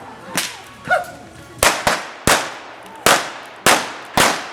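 A staged gunfight with guns firing blanks: about seven sharp shots at uneven intervals, two of them close together a little before the middle.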